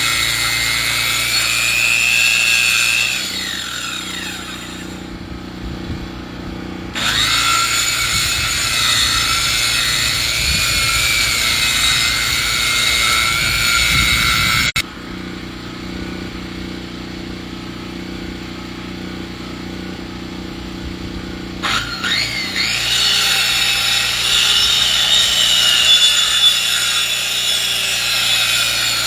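Sawmill cutting lumber from a log, its motor running steadily. A loud, wavering high whine comes and goes in three stretches: at the start, from about 7 to 15 seconds, where it cuts off suddenly, and again from about 22 seconds on.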